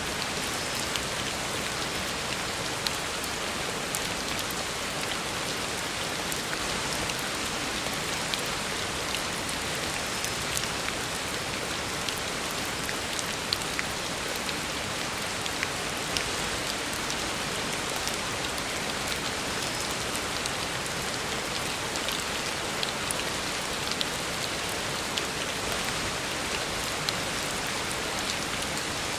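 Heavy rain falling steadily on a road, a dense even hiss with the odd sharper drop hitting close by.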